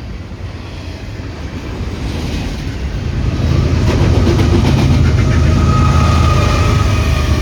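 A train approaching and running past, its low rumble growing louder about three seconds in, with a few faint wheel clicks over the rails.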